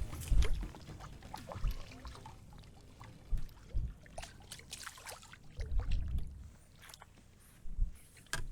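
Water splashing and lapping around a kayak, with scattered irregular clicks and knocks of gear against the hull. Low rumbling wind gusts hit the microphone several times.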